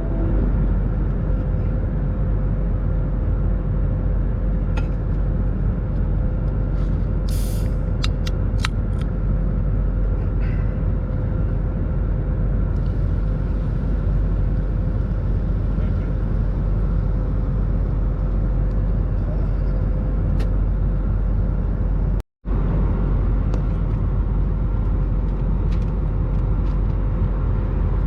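Steady in-flight cabin roar of an Airbus A320neo, with a constant tone near 500 Hz running through it. A few light clicks come about seven to nine seconds in, and the sound cuts out for an instant about two-thirds of the way through.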